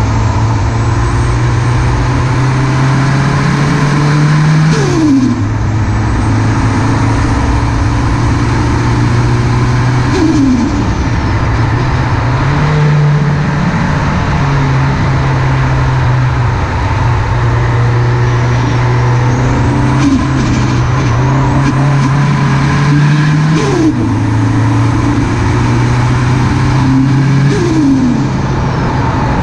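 Nissan SR20DET turbo four-cylinder with a Garrett GTX3071R turbo running under boost, with a turbo whistle rising and falling. About five times the throttle is lifted and the turbo flutters ('stututu'): compressor surge, because there is no blow-off valve to vent the boost.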